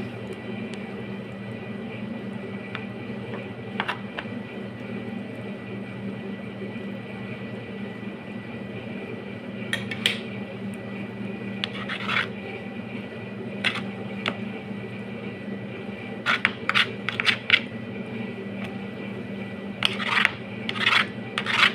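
Kitchen utensils scraping and clinking against dishes in short, scattered bursts, more often and louder in the last few seconds, over a steady hum.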